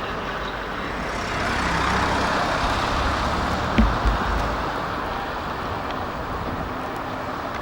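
A freight train rolling past on the track, a steady rushing rumble of wheels on rail that swells and then eases, with two low thumps about four seconds in.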